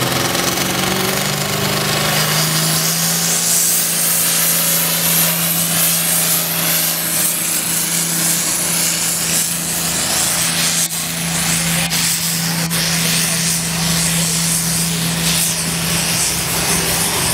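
Farmall 706 pulling tractor's engine at full throttle, its pitch climbing over the first couple of seconds and then holding steady under load as it drags a weight-transfer sled down the track. The engine note is mixed with a harsh grinding rumble from the sled and tyres.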